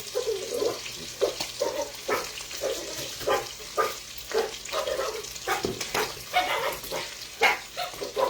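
Lamb chops frying in a pan, the hot oil crackling and spitting with many irregular sharp pops.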